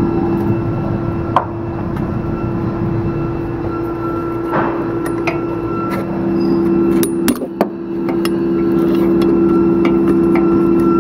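A steady machine hum runs throughout, with a second steady tone joining about six seconds in. Over it come a few sharp metallic clicks and knocks of hand tools on a stubborn bolt under the car.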